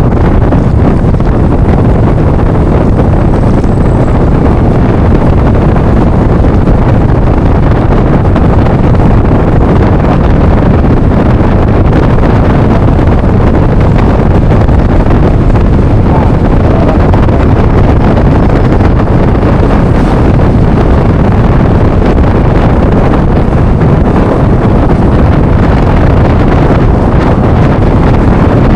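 Steady, loud wind rush on the microphone of a moving Yamaha NMAX Turbo scooter, with the scooter's engine and road noise underneath.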